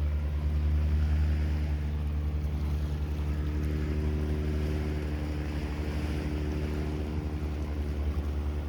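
A motorboat's engine running steadily with a low, droning hum, slowly growing fainter, over a light haze of surf and wind.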